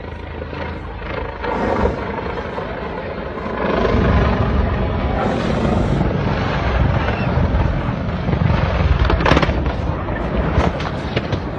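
Helicopter engine and rotor noise, loud and rough, swelling about four seconds in, with a single sharp crack about nine seconds in.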